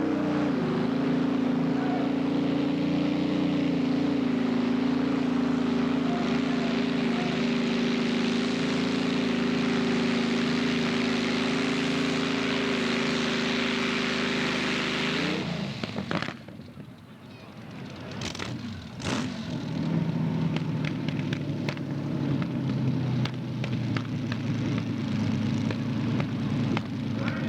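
Modified pulling tractor's engine running flat out at a steady pitch during a pull, then cutting off suddenly about halfway through. After that come two sharp knocks and a lower, rougher engine running.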